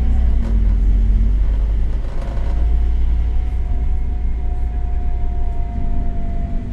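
Scania K270UB city bus with its five-cylinder diesel, running with a heavy low rumble. The engine note fades about a second in and comes back near the end, while a steady whine sounds from about two seconds in.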